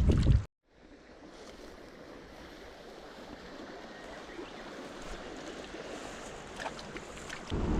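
Small stream flowing, a steady rush of water. It is preceded by a brief burst of wind rumble on the microphone that cuts off abruptly about half a second in; the wind rumble returns near the end.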